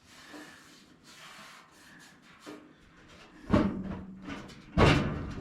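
Faint handling noise, then two loud thumps about a second apart, from the early Ford Bronco's driver's door being worked open and shut while its fit is checked.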